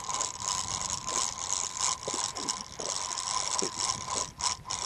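Fishing reel being cranked, its gears giving a steady whirring rattle as line is wound in after a strike. The winding stops shortly before the end.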